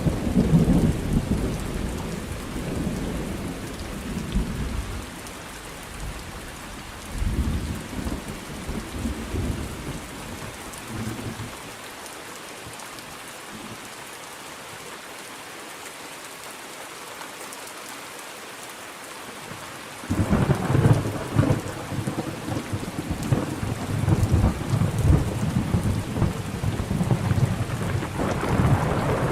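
Thunderstorm with steady rain: a rumble of thunder dies away over the first ten seconds or so, leaving only the rain, then a new peal of thunder breaks in suddenly about twenty seconds in and keeps rumbling.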